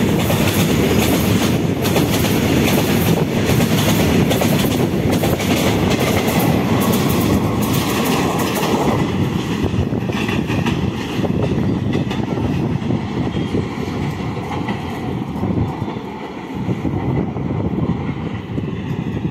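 Freight train of box wagons passing close at speed, its wheels clattering over the rail joints. About nine seconds in, the last wagons go by and the rumble fades slowly as the train draws away.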